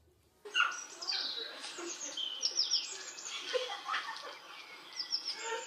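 Birds chirping: many short, high chirps that fall quickly in pitch, starting about half a second in and running on in a busy chatter.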